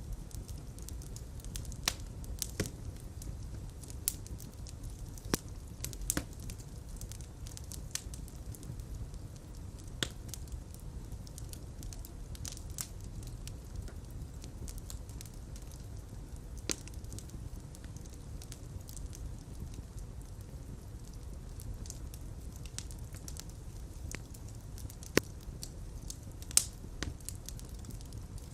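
Fire burning in a fireplace: a steady low rumble of flame with irregular crackles and pops, a few of them sharper and louder than the rest.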